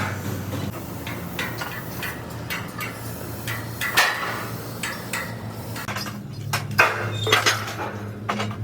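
Irregular metal clanks and knocks from steel trailer-body parts being worked and handled, over a steady low machine hum.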